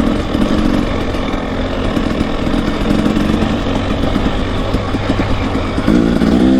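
Two-stroke dirt bike engine running under a rider, heard through a helmet microphone, its pitch rising and falling with the throttle and climbing near the end as it revs up.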